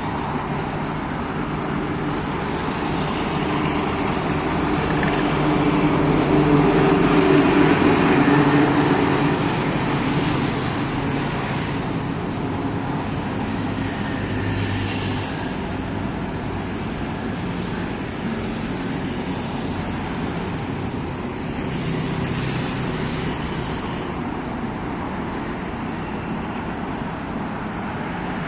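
Steady roadway traffic noise from a busy highway, with motor vehicles passing. One vehicle passes close about seven or eight seconds in, the loudest moment, and smaller swells come as other vehicles go by.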